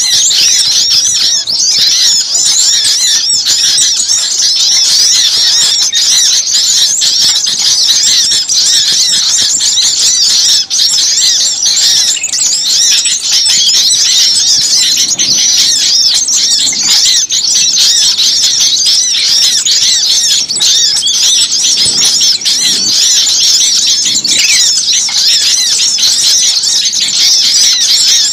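Dense, unbroken chorus of rapid, high chirping and squealing calls from many small birds, the agitated noisy calls played back to lure small birds in.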